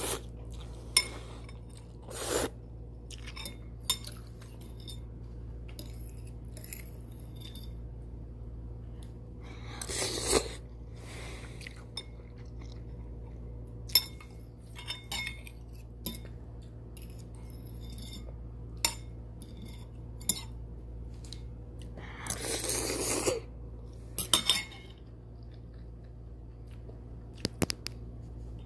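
Someone eating instant ramen: chopsticks and a spoon clicking and scraping against the bowl, chewing, and a few loud noisy spells of about a second each, likely noodles being slurped. A steady low hum runs underneath.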